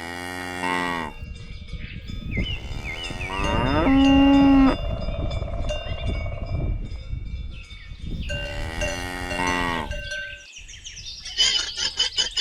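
Cows mooing: three long, drawn-out moos. Near the end comes a rapid, even clinking of cowbells.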